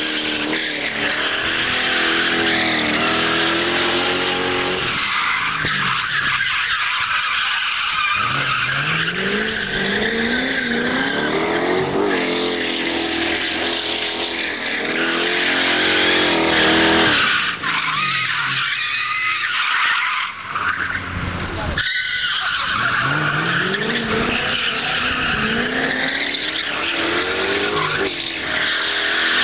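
BMW 4.4-litre V8 drift car revving hard, the engine pitch climbing and falling again and again, with tyres squealing as the car slides sideways.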